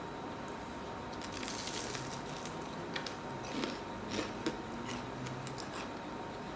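A crisp fried churro being bitten and chewed close to the microphone, with irregular crunchy crackles.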